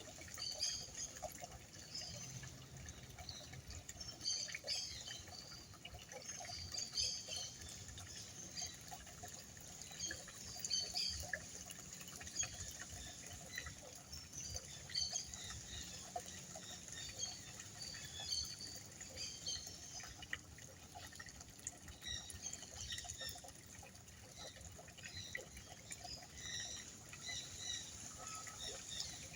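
Water feature running, with a steady trickle and many small splashes and drips; it is working again after being off.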